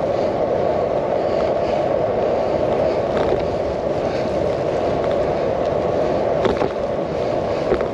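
Steady rushing noise on the microphone of a handlebar-mounted action camera as a bicycle is pushed uphill, with a few faint clicks about six and a half seconds in.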